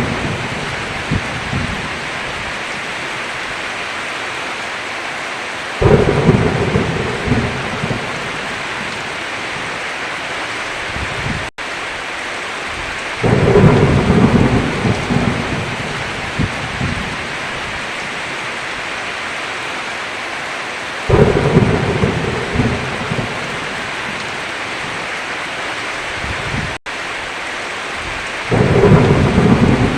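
Steady heavy rain with rolls of thunder that break in suddenly about every seven to eight seconds, four times, each rumbling for a few seconds. The rain cuts out twice for a split second.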